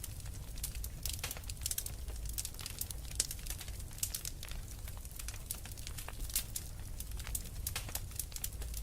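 Fire in a fireplace crackling, with many irregular sharp snaps and pops over a low steady rumble.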